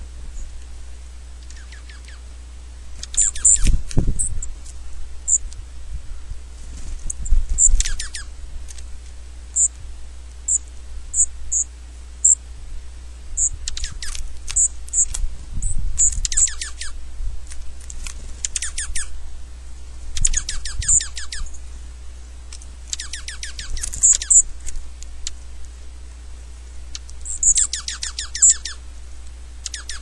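Small birds calling at a bird feeder: bursts of fast, rattling chatter every few seconds, with short high chirps between them. A low rumble comes in now and then.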